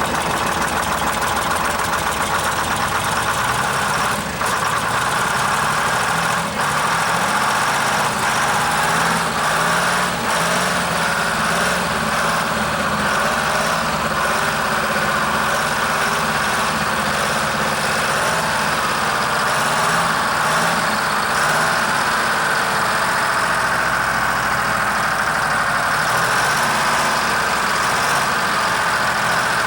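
Large diesel engine idling steadily, its speed drifting up and down a little.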